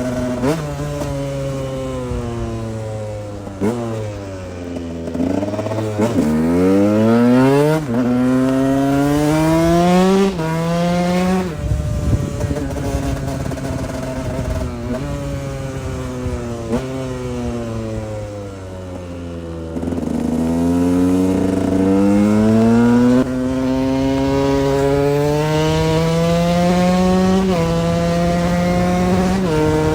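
KTM 125 EXC's two-stroke single-cylinder engine under way, revving up through the gears: the pitch climbs and drops sharply at each shift, about six times. Twice the revs fall away as the throttle is eased off, around four seconds in and again near eighteen seconds, before it pulls up through the gears again.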